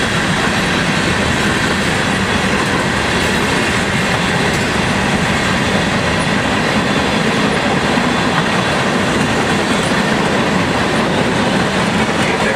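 Freight train cars, covered hoppers among them, rolling past close by: a loud, steady noise of steel wheels running on the rails.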